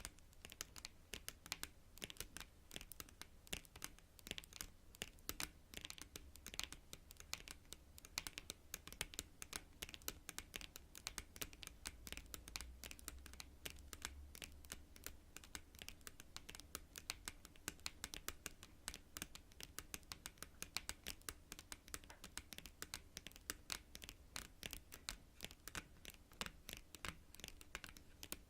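Long natural fingernails tapping on cards in quick, uneven clicks, many to the second.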